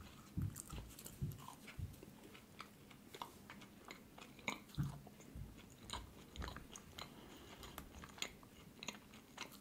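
Faint chewing of pita flatbread dipped in hummus, with irregular soft mouth clicks and smacks.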